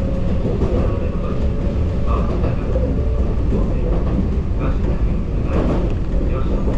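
Kintetsu two-car electric train running along the track, heard from inside the driver's cab: a steady rumble of wheels and running gear.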